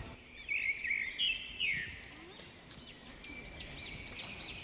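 Birdsong: a string of short, quick arched chirps, loudest in the first two seconds, then a faster run of similar chirps, over faint outdoor background noise.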